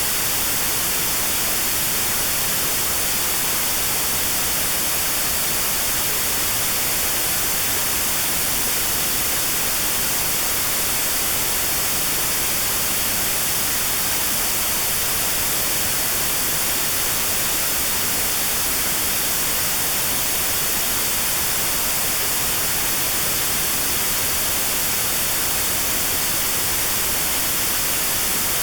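Notch-filtered white noise: a steady, even hiss with a narrow band around 4 kHz cut out, used as notched sound therapy for 4 kHz tinnitus.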